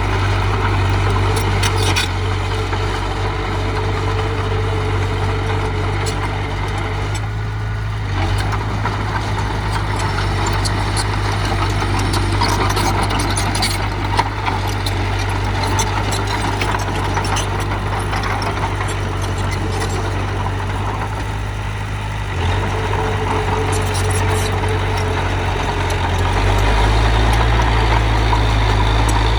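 Diesel engine of heavy earth-moving machinery running steadily with a low drone and a few short clicks. It gets louder and deeper near the end.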